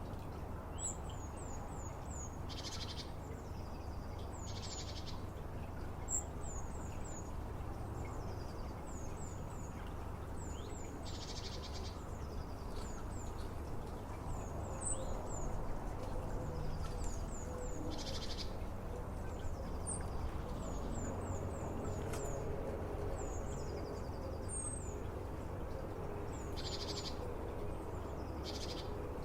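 European goldfinch calling: short, very high twittering notes in little runs of three or four, repeated every couple of seconds, with a buzzy nasal note now and then. A steady low rumble runs underneath.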